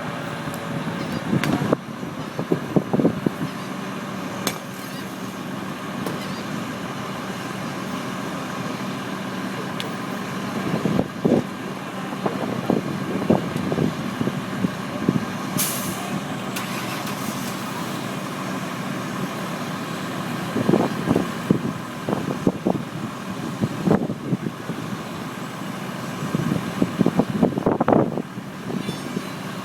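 A vehicle engine running steadily, with irregular louder bursts over it.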